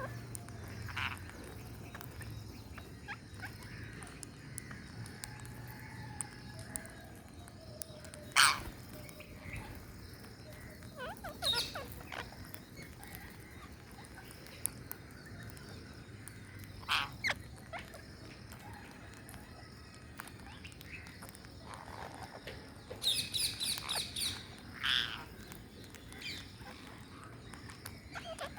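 Parrots giving scattered short squawks and chirps, the loudest about eight seconds in, with a quick run of high chirps near the end.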